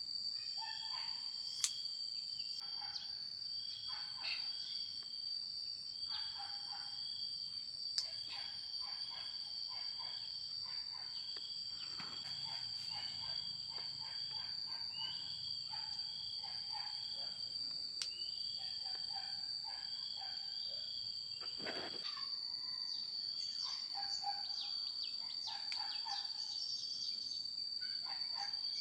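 Insects chirring steadily at a high pitch, with a second, lower chirring call that repeats about every two seconds. Faint scattered knocks are heard under them.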